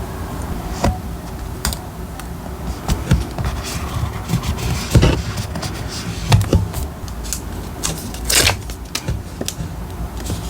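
Diary-decorating materials handled on a desk: a run of light taps, clicks and paper rustles, with a longer rustle about eight seconds in, over a steady low rumble.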